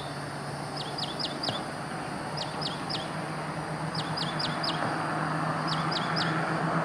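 A small songbird calling in quick runs of three or four sharp chirps, repeated every second or two, over a steady low hum and background noise that grows louder.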